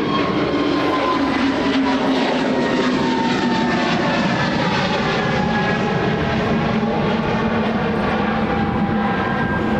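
Airbus A321 twin-jet airliner passing low overhead on landing approach: a loud, steady jet roar with engine whines sliding slowly down in pitch as it goes by.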